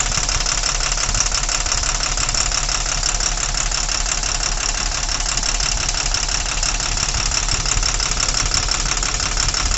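Tata truck's six-cylinder Cummins BS4 diesel engine idling steadily, its sound unchanged while the number-four injector line is loosened: that cylinder is not firing, which the mechanic puts down to a faulty injector, cylinder or valve.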